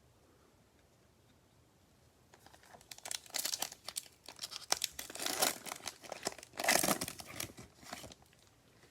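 Plastic-foil trading card pack wrapper being torn open and crinkled by hand, a ragged run of tearing and crackling that starts about two seconds in and goes on for about six seconds.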